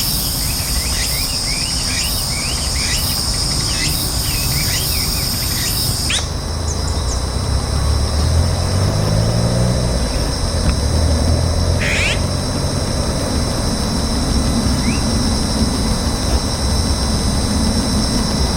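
Insects buzzing steadily at two high pitches, with many short bird chirps over them. About six seconds in this cuts off and gives way to a steady low hum, with a single bird call about twelve seconds in.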